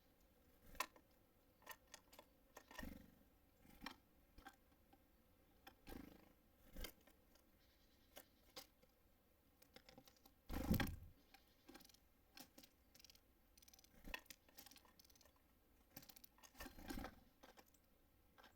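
Small birds at a feeder pecking and cracking seeds: irregular light taps, scratches and clicks on the feeder, with one louder knock about eleven seconds in.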